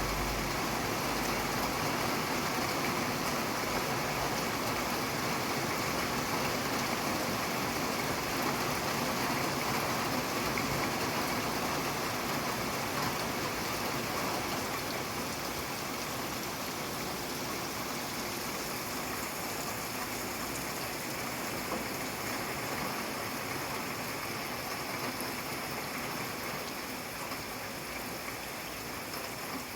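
Steady rain falling, an even hiss with no distinct drops or thunder, growing slightly lighter toward the end.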